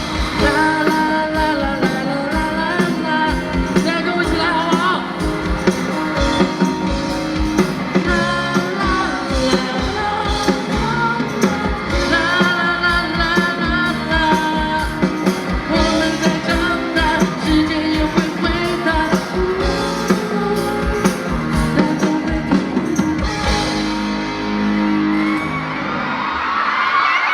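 Live pop-rock band with a steady drum beat, held chords and singing, amplified through a festival PA. Near the end the music stops and the crowd cheers and screams.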